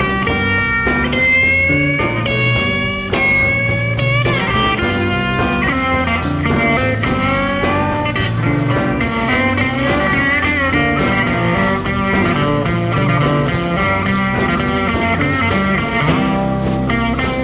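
Live rock band playing an instrumental break: electric lead guitar with bending, sliding notes over bass and drums.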